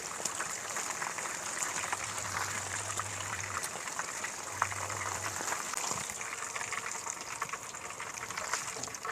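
Marinated chicken pieces frying in hot oil: a steady sizzle with scattered crackles and pops.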